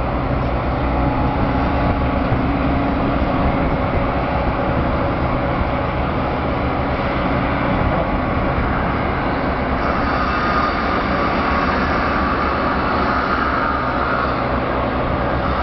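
Hitachi Zaxis ZX130 excavator running steadily as it digs, its diesel engine and hydraulics working. About ten seconds in, a higher-pitched whine joins and carries on to the end.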